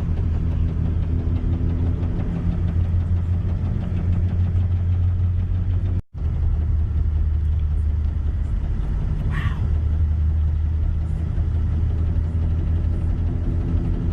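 Steady low drone of a car's engine and road noise heard inside the cabin, cut off for an instant about six seconds in.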